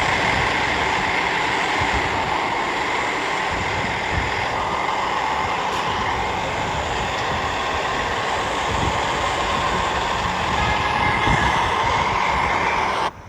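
Steady, loud running noise of a vehicle in motion, holding even throughout and cutting off suddenly near the end.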